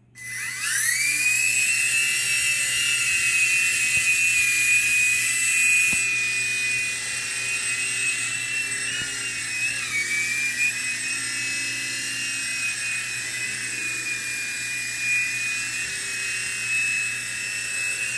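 Small battery-powered remote-control toy helicopter: its electric motor and rotor blades spin up with a quickly rising whine, then hold a steady high-pitched whine while it flies. The pitch wavers briefly about halfway through.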